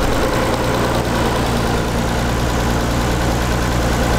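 Nissan 300ZX (Z32) VG30DE V6 idling steadily, newly started after a full engine reseal.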